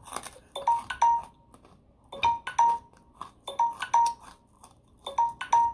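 Electronic timer alarm ringing, a short chime of two or three ringing notes repeated about every one and a half seconds.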